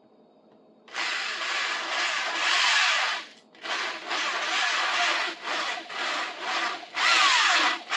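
Electric drill boring a wood bit into a glued-in wooden handle stub. It starts about a second in and runs in bursts with short pauses, its pitch sagging several times as the bit bites.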